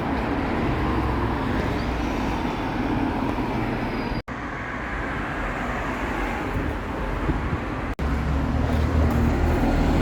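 Steady road traffic noise with a vehicle engine running, broken twice by a sudden momentary dropout in the sound.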